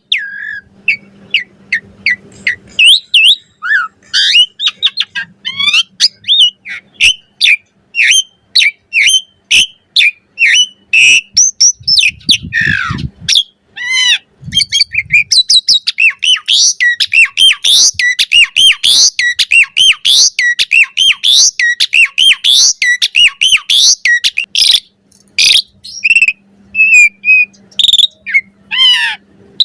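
Asian pied starling (jalak suren) singing a long, varied song: a fast, unbroken string of whistles, chirps, squeaks and chatter that quickens and grows denser past the middle.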